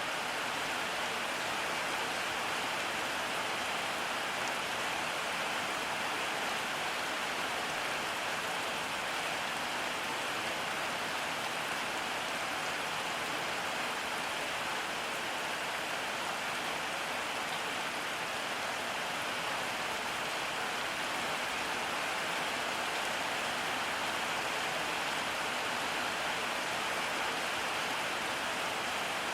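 Steady rain falling on surfaces, an even hiss without letup.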